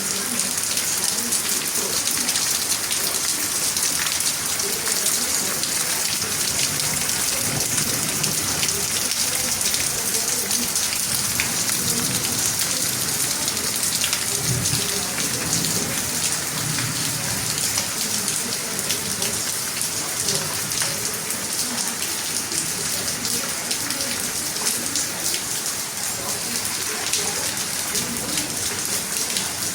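Heavy rain pouring down steadily: a dense, even hiss of drops.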